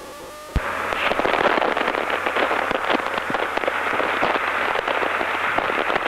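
Autocom motorcycle intercom channel cutting in abruptly about half a second in, then a loud, crackling, fuzzy radio hiss full of clicks, with a low hum under it. It is typical of an intercom whose VOX setting is wrong, so the channel opens on noise with no speech.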